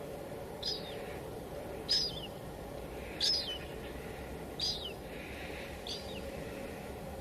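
A bird calling five times, a short high chirp falling in pitch about every second and a half, over the steady hiss of light rain.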